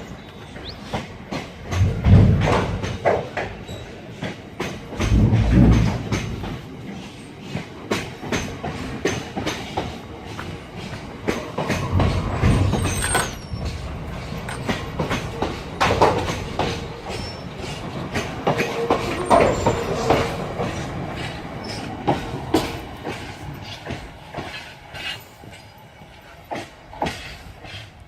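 A freight train of wagons rolling past slowly, its wheels clicking and knocking over the rail joints, with a few heavier low thumps and a faint wheel squeal.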